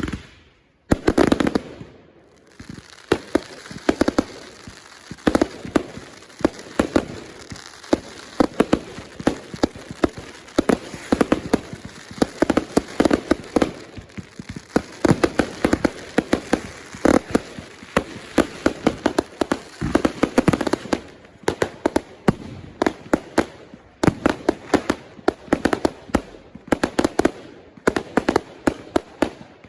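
Consumer firework cakes firing a rapid barrage, several sharp bangs a second with a high crackling hiss underneath, pausing briefly a few times before firing on.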